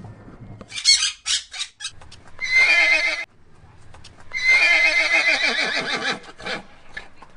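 Two long horse whinnies with a quavering pitch, the second one longer. A few short, sharp calls come before them, about a second in.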